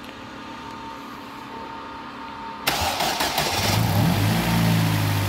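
Ford Focus 1.6 Zetec four-cylinder petrol engine, freshly rebuilt with new pistons, cranked on the starter about two and a half seconds in. It catches after about a second, revs up briefly and settles into a steady idle.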